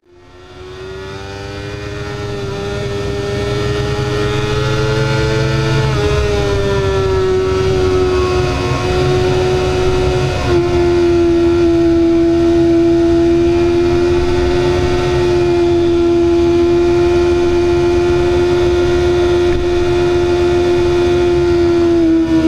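BMW S1000RR inline-four engine pulling at a steady road speed, with wind rumble on the microphone beneath it. The engine note climbs slightly, dips about six seconds in, then drops a step about ten seconds in as the bike shifts up, and holds steady after that. The sound fades in over the first couple of seconds.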